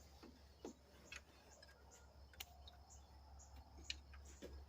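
Near silence with a few faint, irregular clicks of a wrench working a bolt loose on an old truck engine.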